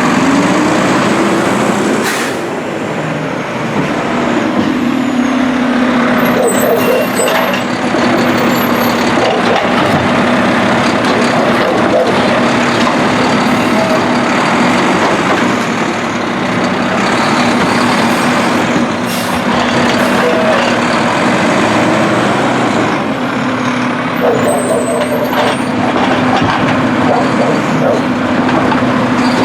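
Mack LR refuse truck with a Heil Durapack Rapid Rail automated side-loader body, its diesel engine running with a steady drone, broken by a few sharp knocks.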